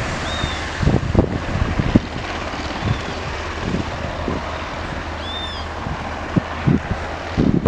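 Steady rushing noise of a distant aircraft engine, broken by irregular low thumps of wind on the microphone, with a few short high chirps.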